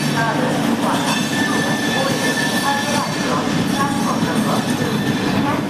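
Train running on the rails: a steady rumble with high, steady metallic squeal tones from the wheels.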